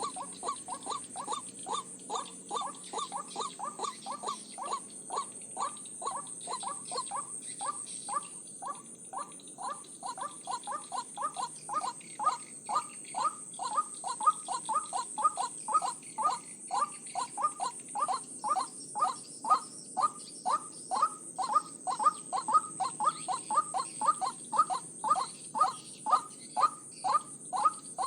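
White-breasted waterhen calling: a long unbroken run of short, harsh, downward-sliding calls, about two to three a second, growing a little louder in the second half. A steady high-pitched whine runs underneath.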